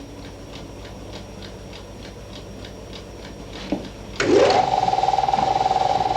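Laboratory instrument ticking evenly, about four ticks a second. About four seconds in, a motor starts up with a rising whine that settles into a loud, steady whirr.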